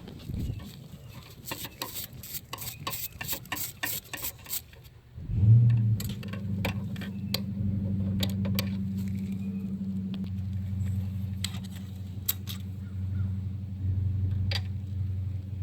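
Socket wrench ratchet clicking rapidly on an extension as a bolt is turned, for about five seconds. Then a steady low hum starts suddenly and runs on, with a few scattered clicks.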